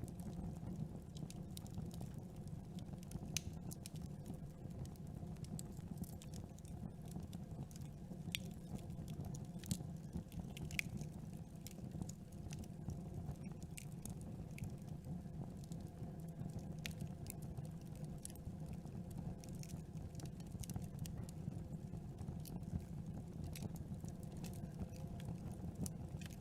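Campfire crackling: a steady low rumble of burning with frequent, irregular sharp pops and snaps from the burning wood.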